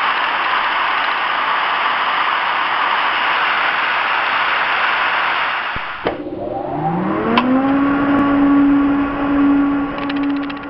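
TIG welding arc hissing steadily for about six seconds, cutting off suddenly. It is followed by a tone that rises over about a second and settles into a held hum.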